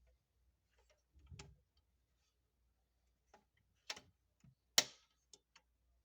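Scattered small clicks and light knocks from handling a 1:24 scale die-cast Mercedes-Benz Sprinter model van: a duller knock about a second in, then a run of sharp clicks, the loudest just before five seconds in with a short ring.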